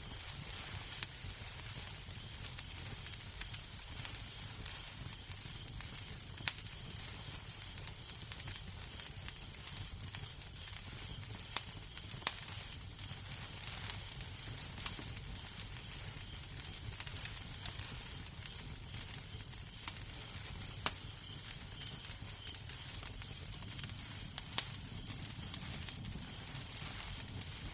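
Wood fire crackling in a fireplace: a steady hiss with sharp pops scattered every second or two.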